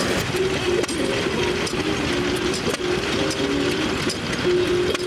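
Vintage stationary engines and machinery running, a steady rapid clatter with short held tones that step between a few pitches over it.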